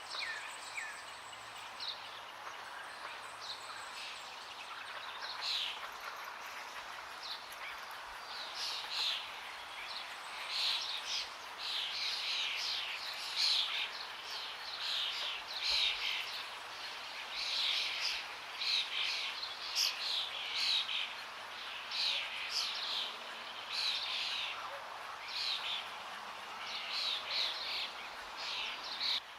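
Small birds chirping in quick repeated bursts, busier from about a quarter of the way in, over a steady rush of flowing water.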